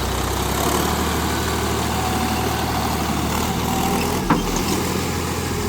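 Mahindra 275 DI TU tractor's diesel engine running steadily, with one sharp knock about four seconds in.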